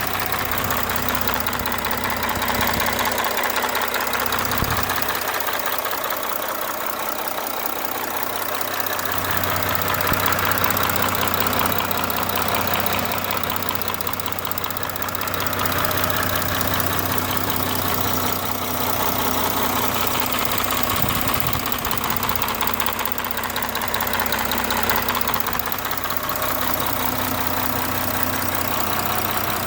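Audi 3.0 TDI V6 diesel engine, lightly warmed up, idling steadily with a fast, even ticking clatter that the owner wonders may come from the camshaft.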